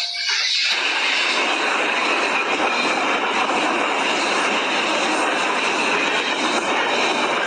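A steady rushing noise, even and unbroken, starting as a few bell-like music notes die away in the first half-second.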